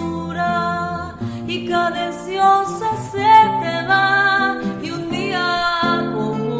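A song: a voice singing a melody over guitar accompaniment.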